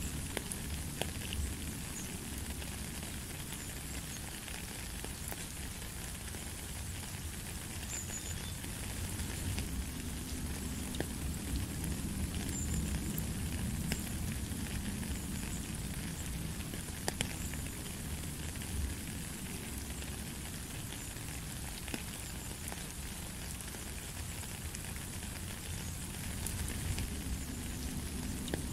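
Steady rain falling on a gravel path and into a puddle, an even hiss with scattered sharper drops landing in the water.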